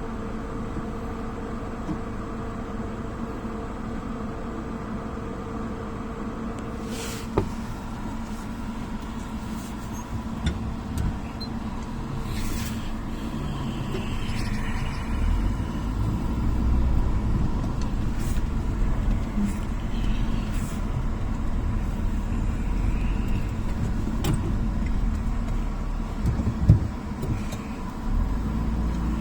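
Motor vehicle running, heard with a steady engine hum and a deeper rumble that grows about halfway through, as if moving or pulling away. A few sharp knocks or clicks cut through, one about a quarter of the way in and a louder one near the end.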